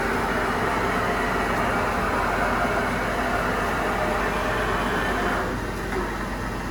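HAUSER SIP MP 53 CNC jig boring machine running with a steady whirring noise that stops about five and a half seconds in, leaving a low hum.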